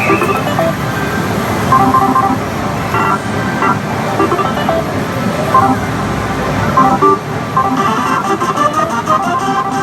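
Loud, dense din of a pachislot hall, with many machines' short electronic beeps and jingles scattered over it.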